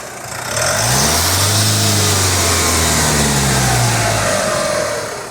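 Iveco Daily 2.3 HPi four-cylinder turbo-diesel engine being revved: it drops back from a rev at the start, then climbs quickly, holds high for about three seconds, and falls back to idle near the end.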